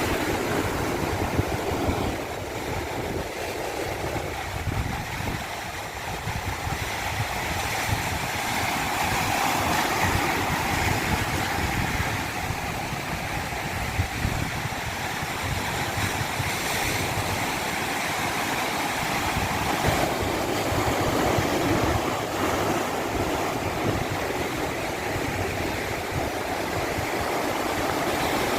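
Rushing water of a cascading stream, a continuous steady rush that swells and eases gently.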